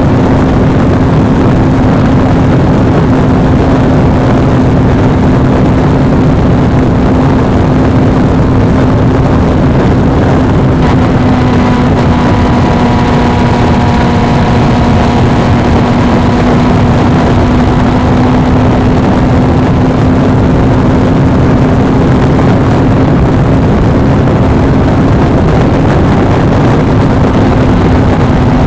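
Suzuki V-Strom 250 motorcycle running at a steady cruise: a steady engine drone under loud, constant wind noise on the action camera's microphone. A few higher tones join in for several seconds around the middle.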